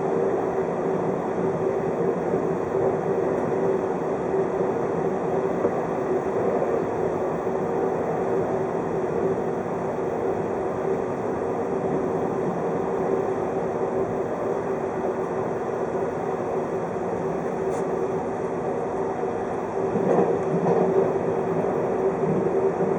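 583 series electric train running at speed, heard from inside a passenger car: steady rolling rumble with a constant hum, growing a little louder and rougher near the end.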